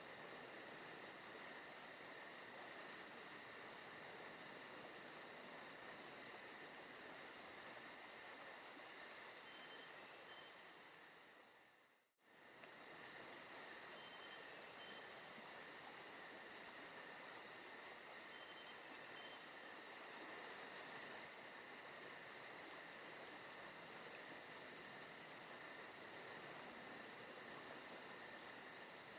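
Faint forest ambience of crickets and other insects chirring steadily in fast, even pulses. About twelve seconds in it fades out to near silence for a moment and fades straight back in.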